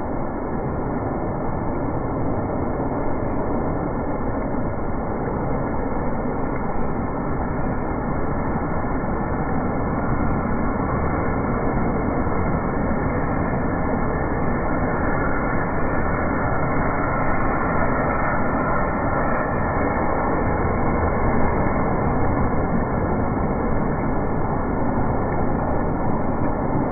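Heavy rain pouring onto a flooded pavement, with rainwater rushing along the curb: a steady, even rushing noise.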